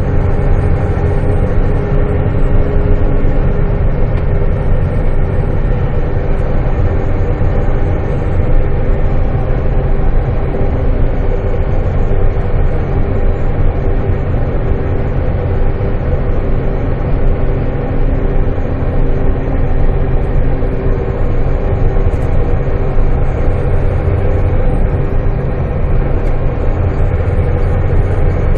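Semi truck's diesel engine running at a steady speed, a loud, even drone with no changes in pitch.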